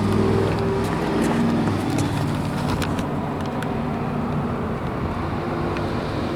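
Chevrolet ZZ3 350 small-block V8 with dual exhaust running steadily, a low engine note with slight shifts in pitch.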